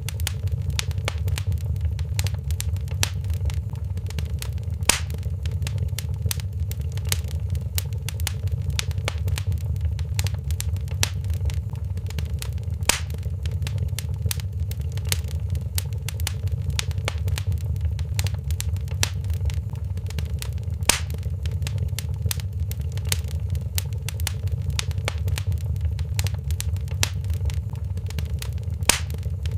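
Wood fire in a fireplace crackling steadily, with constant small pops over a low, even rumble and a few louder snaps every several seconds.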